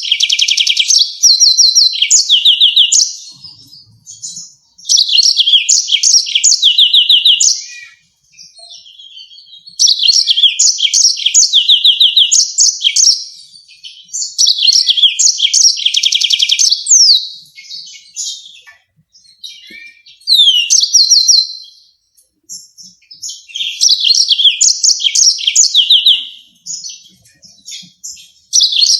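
Yellow-fronted canary singing: phrases of about two to three seconds made of fast trills and rapidly repeated sharp notes, with short pauses between, about six phrases in all.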